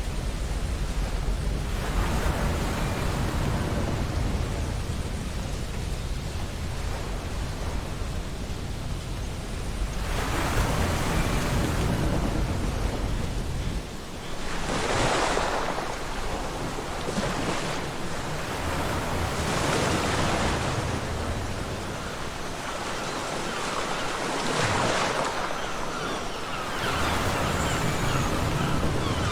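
Ocean surf breaking and washing up a beach, with a low rumble through the first half. About halfway through the rumble drops away and separate waves surge in and wash back, one every few seconds.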